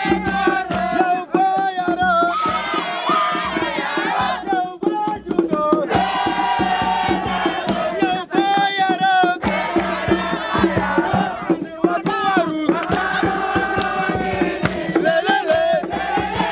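A group of voices singing a chant together, with a steady beat running under it.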